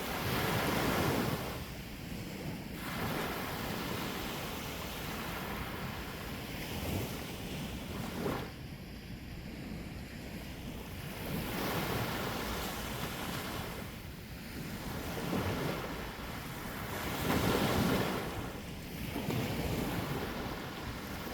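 Sea waves breaking on the shore, the surf rising and falling in surges every few seconds, with wind rumbling on the microphone.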